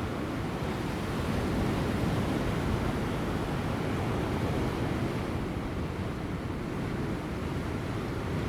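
Ocean waves breaking on offshore rocks: a continuous low rush of surf that swells and eases slightly, with light wind.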